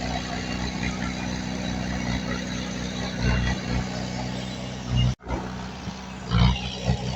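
Diesel engine of heavy earthmoving machinery running steadily, with a few brief louder surges. The sound cuts out for an instant about five seconds in.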